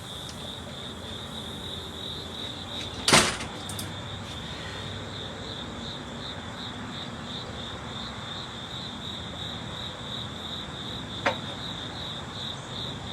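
Crickets chirping in a steady pulsing trill, with one sharp knock about three seconds in and a lighter click near the end.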